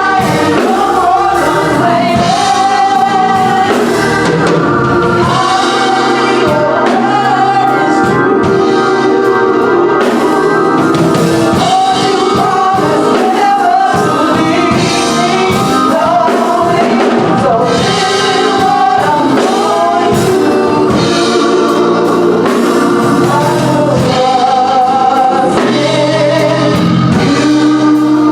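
Gospel song: voices singing together over instrumental backing with drums.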